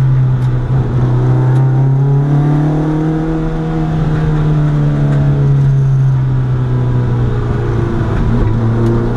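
Historic rally car's engine heard from inside the cockpit, running hard on a hillclimb. Its note rises and falls slightly with the throttle, dipping about four seconds in.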